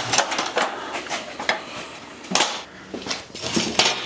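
Irregular knocks and clatter of ladders and stools being shifted and set down, several sharp impacts a second apart or less.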